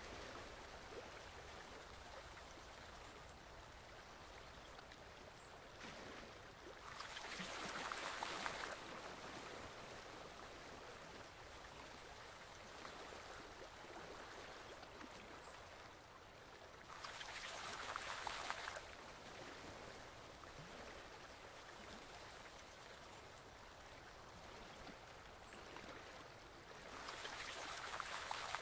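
Gently flowing stream water, a faint steady rush that swells louder for about two seconds three times, roughly every ten seconds.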